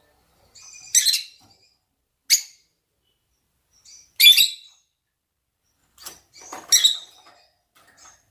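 Rosy-faced and Fischer's lovebirds giving mating calls: about four loud, short, shrill shrieks at irregular intervals, with softer chirps between them.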